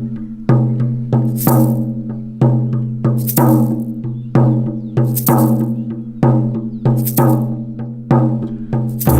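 Sound-therapy music: a steady low drone under a slow percussion beat, about one stroke a second with lighter strokes between, each main stroke carrying a bright rattle.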